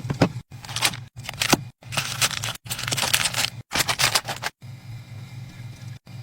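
Food packaging and containers handled while a refrigerator is restocked: rustling, scraping and light clicks in short pieces, each cut off by an abrupt silence. For the last second and a half there is only quieter noise over a steady low hum.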